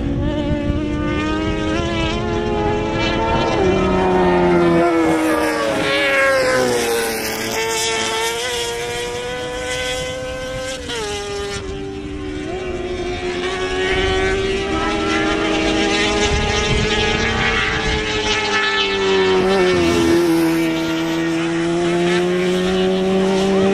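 Several racing engines running hard at once, their pitch climbing and dropping several times as they rev and pass.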